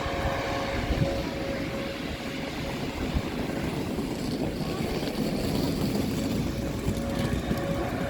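Bus engine running close by: a steady drone with a held whining tone over a low rumble.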